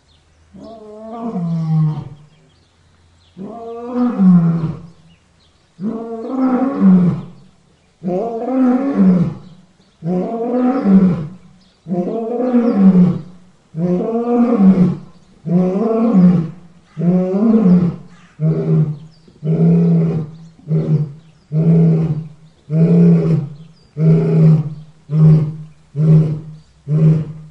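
A lion's roaring bout: long roars about every two seconds that build in loudness, then shorten into a fast run of grunts, about one a second.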